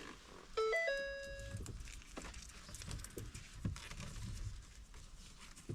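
Ford Escape's dashboard warning chime sounding once, about half a second in: a quick stepped tone settling into a held note for about a second. After it, faint clicks and rattles of parts being handled.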